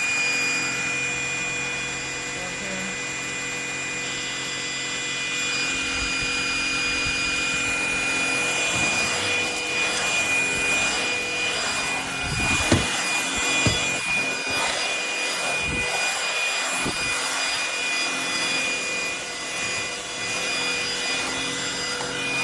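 Cordless stick vacuum running steadily, a constant motor whine over airflow noise. A few short knocks come about halfway through as it is moved over the floor.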